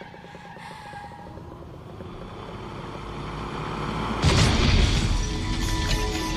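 Action-film soundtrack with score music: a vehicle engine builds in loudness, then a heavy crash and boom about four seconds in is followed by low rumbling.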